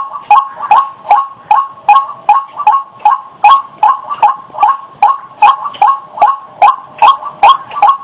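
White-breasted waterhen (ruak) calling: a harsh croaking note repeated steadily, about two and a half times a second.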